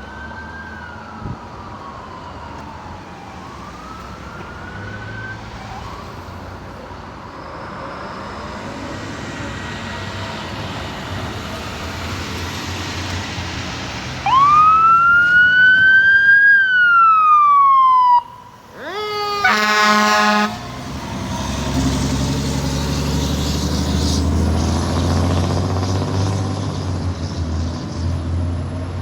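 Fire truck siren wailing, faint at first, then loud as a long rising-and-falling wail about halfway through that cuts off sharply. A loud horn blast follows, then the heavy rumble of the truck's engine as it passes.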